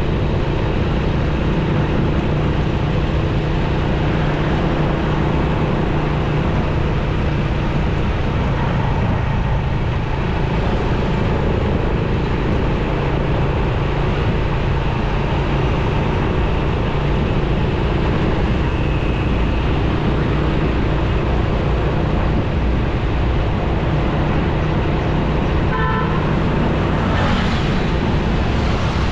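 Motorcycle riding in city traffic: a steady engine hum under constant wind and road noise. A short vehicle horn toot sounds near the end.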